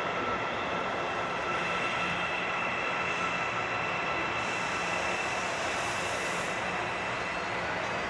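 Electric metro train running: a steady rush of noise with a few steady high whining tones over it.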